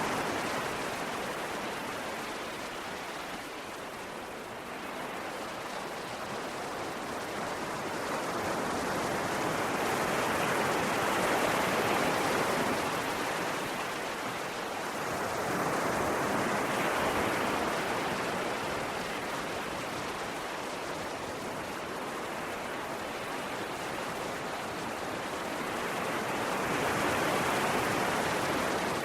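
Ocean waves breaking and washing in, a steady rush of surf that swells and eases in slow surges every several seconds.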